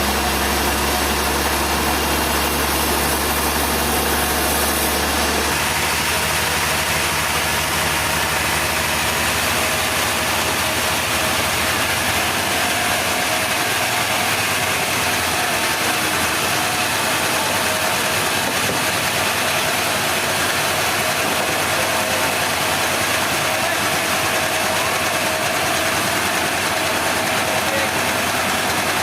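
Sawmill machinery running steadily. About five seconds in, the low engine hum drops out and the running sound changes character, then carries on steady.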